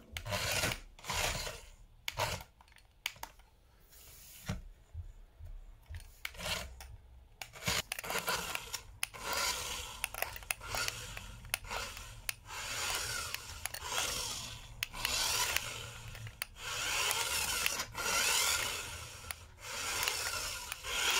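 A 1:24-scale RASTAR Pagani Zonda R remote-control toy car driving, its small electric motor and plastic drivetrain making a scratchy whirring sound. The car runs in short bursts of one to two seconds that start and stop again and again.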